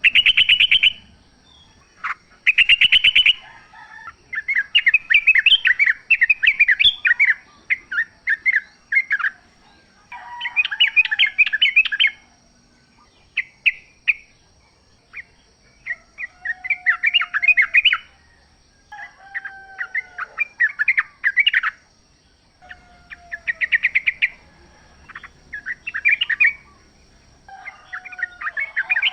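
Yellow-vented bulbuls singing: repeated bursts of bubbly, chattering notes lasting one to several seconds, with short gaps between them and a few lower falling whistles. A faint steady high tone runs underneath.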